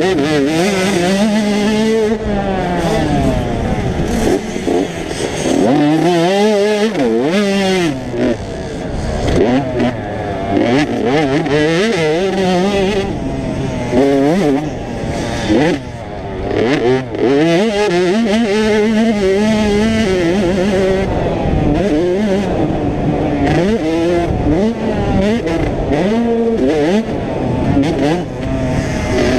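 Several 85cc two-stroke motocross bikes revving on a track, their engine pitch rising and falling repeatedly as riders open and close the throttle and shift, with more than one bike heard at once.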